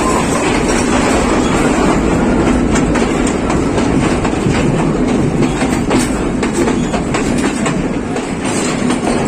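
Passenger train running along the track: a steady rumble and rattle with the wheels clattering over the rails in many short clicks.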